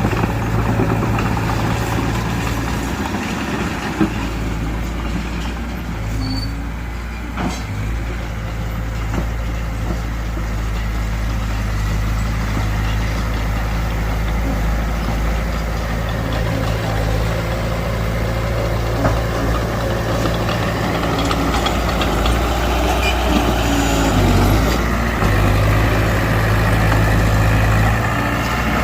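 Diesel engine of a small Mitsubishi BD2F bulldozer running steadily as it works. Its low note steps up and down several times with the load, and there are a couple of sharp knocks, the clearest about seven seconds in.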